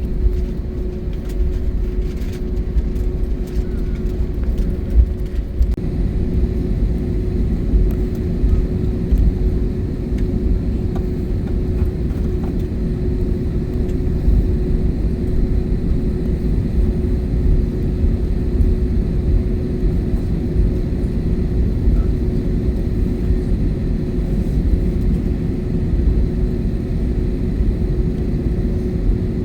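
Cabin noise of an Airbus A321neo taxiing after landing: a steady low rumble from the engines and rolling airframe, with one constant droning tone over it.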